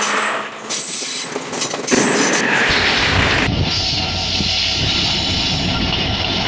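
Udaya Devi express train running on the rails, with a steady rumble and rattle of the carriages. About two and a half seconds in, the sound thickens into a louder, steady low rumble.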